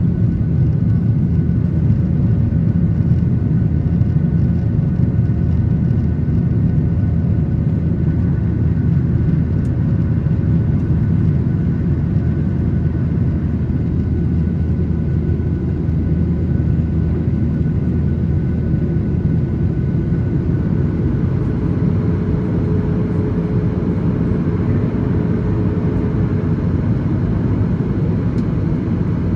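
Steady engine and air rush of a Boeing 737-800 with CFM56-7B turbofans, heard from inside the passenger cabin: a loud, even low roar with faint steady whining tones over it.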